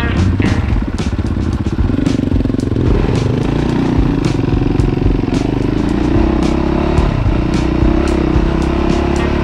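Dirt bike engine running under way, its note climbing slowly over several seconds as the bike picks up speed, with rattles and knocks from the bike riding over the rough dirt track.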